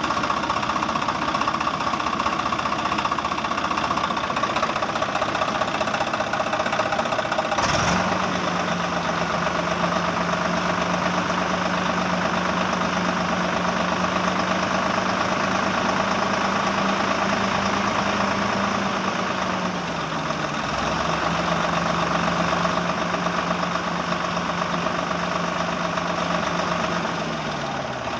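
Engine running steadily. About eight seconds in a steady low hum joins it, drops a little in pitch around twenty seconds, and fades out near the end.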